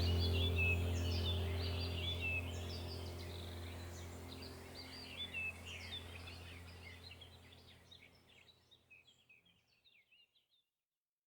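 Small birds chirping and singing over a low steady drone, the whole soundtrack fading out to silence about eight seconds in.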